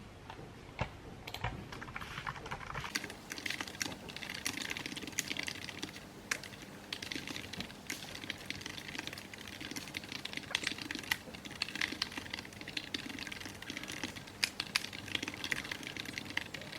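Rapid keyboard typing: a quick, uneven run of key clicks that picks up about three seconds in and keeps going.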